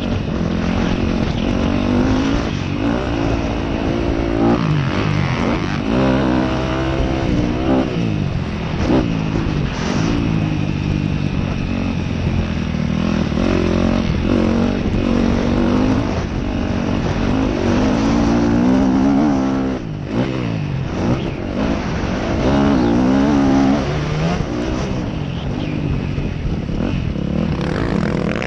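Dirt bike engine revving hard and easing off over and over as it is ridden around a motocross track, its pitch climbing and dropping every second or two through shifts, with wind noise on the microphone.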